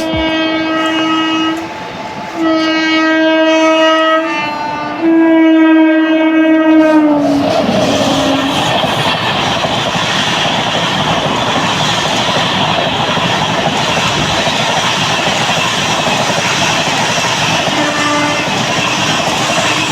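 Locomotive horn blowing three long blasts, the pitch of the last one dropping as it passes, followed by the steady loud rush and clatter of an express train with LHB coaches running past; a short horn toot sounds near the end.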